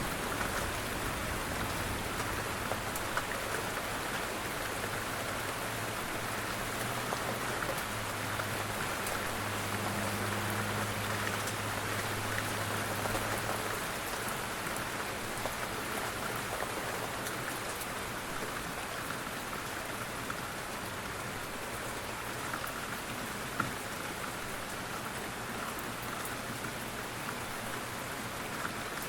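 Steady rain falling, with individual drops ticking now and then. A low rumble underneath fades out about halfway through.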